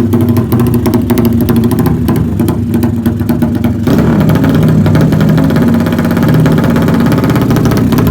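Motorcycle engine running steadily through an aftermarket racing exhaust on a dyno. About four seconds in the note changes and gets fuller and louder.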